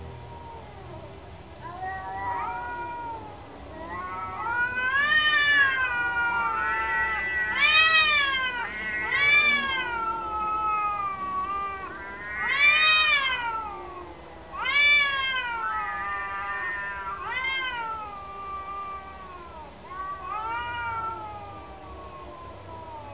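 Cats meowing, a dozen or so drawn-out meows that rise and fall in pitch, several of them overlapping, as if from more than one cat.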